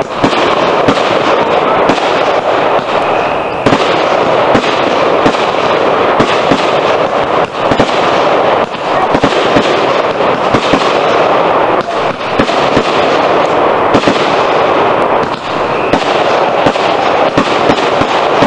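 Consumer fireworks going off: a loud, steady hissing spray with many sharp crackles and pops throughout.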